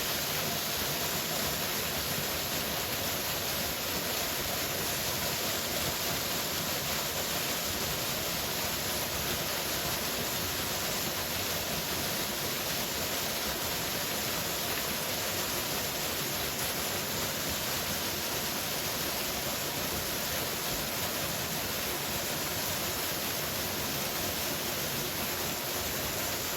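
Steady rush of a powerful waterfall, an even, unbroken roar of falling water.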